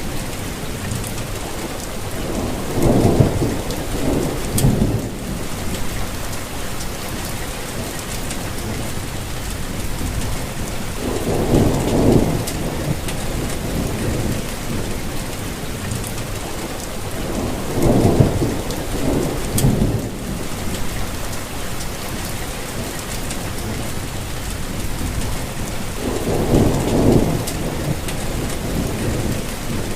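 Steady rainfall with low rolls of thunder rumbling up four times, each swelling for a couple of seconds.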